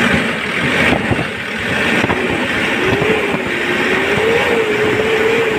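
Hyundai Porter's common-rail diesel engine running and being revved, its speed rising and falling. It now starts readily, its hard starting cured by a new pressure relief valve on the common rail.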